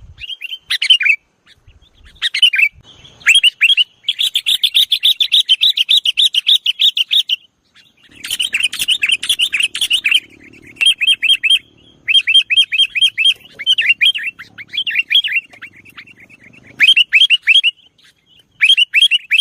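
Sooty-headed bulbul (kutilang) calling hard in rapid runs of sharp, downward-slurred notes, several a second, in bursts of one to three seconds separated by short pauses.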